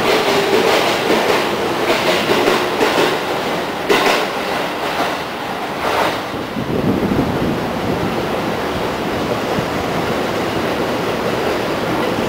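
Trains passing through a station: steel wheels clicking over rail joints, with a couple of sharp knocks, as the last container wagons of a freight train go by and an electric commuter train runs in along the platform. A low rolling rumble takes over from about six seconds in.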